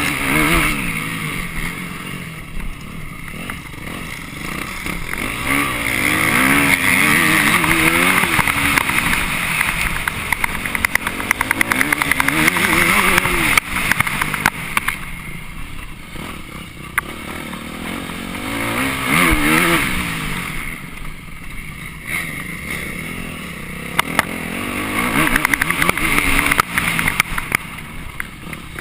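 Off-road motorcycle engine heard from on board, revving up and dropping back again and again in pitch as the bike accelerates and slows round a dirt course. Wind noise and sharp knocks from bumps hit the microphone throughout.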